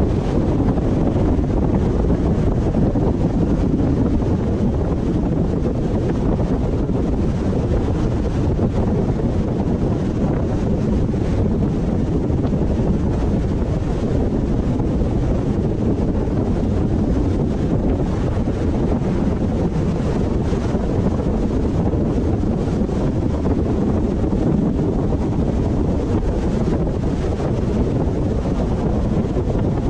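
Steady road and wind noise of a car driving, a low, even rumble with wind on the microphone.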